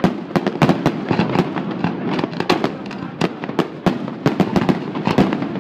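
Fireworks display: a rapid, unbroken run of sharp bangs and crackling, several reports a second.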